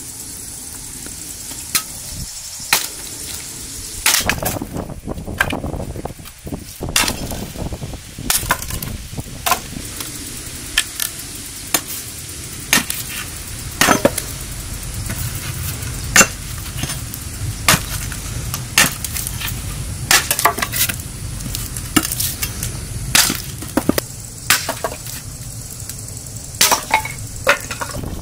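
Food frying with a steady sizzle, with sharp knocks of a utensil against the pan at irregular intervals of about a second, some in quick pairs.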